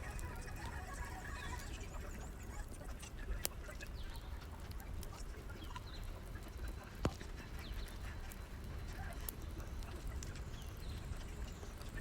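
Firewood burning in a fireplace: a steady low rumble and hiss of the fire, with two sharp crackling pops about three and a half and seven seconds in, and small high squeaks and whistles.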